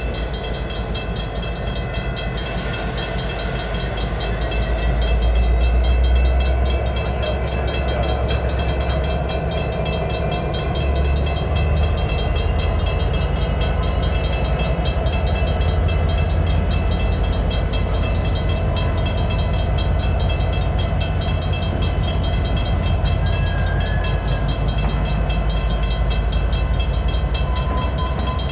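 A switching freight train rolling slowly through a grade crossing: a diesel locomotive's deep, steady rumble swells briefly a few seconds in, under the continuous ringing of the crossing bell.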